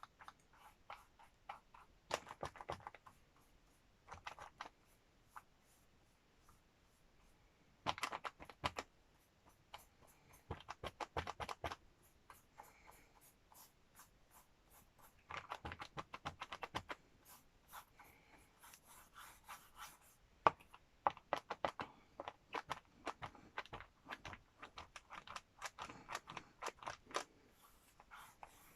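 Ink being dabbed onto a book cover by hand: bursts of quick little taps and scratches, a second or so each, repeated every few seconds.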